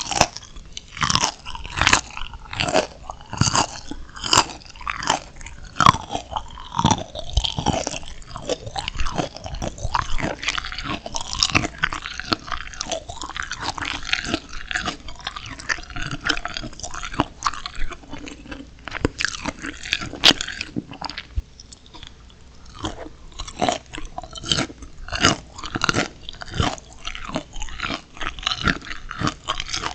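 Close-miked crunching bites and chewing of steamed whole shrimp, shells and all, eaten with raw green chilli peppers: a dense run of sharp, crisp crackles with a few louder bites between stretches of steady chewing.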